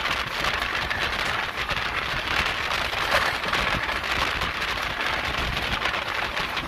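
Steady rush of wind and wheel noise from an Indian Railways express train running at speed, heard from the open side of the moving coach.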